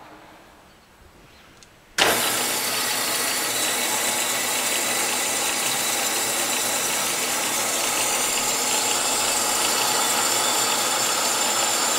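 Scotchman SH 1016 horizontal band saw with its 2 HP variable-speed blade drive comes on abruptly about two seconds in and runs steadily with a loud, even machine whir and hiss.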